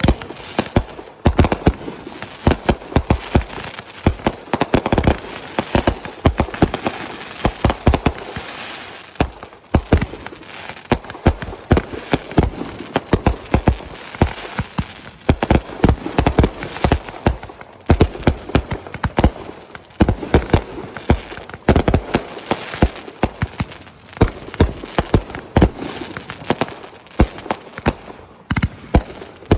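Fireworks going off in a dense barrage, several sharp bangs a second.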